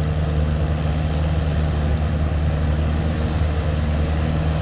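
Vintage farm tractor engine running at a steady speed, a low, even drone with no revving.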